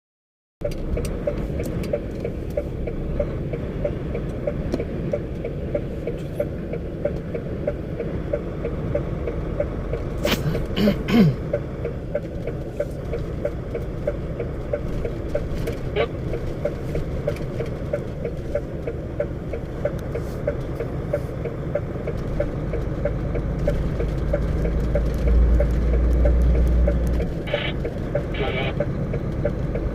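Vehicle driving at road speed: a steady engine and road rumble. The low rumble swells for a few seconds near the end.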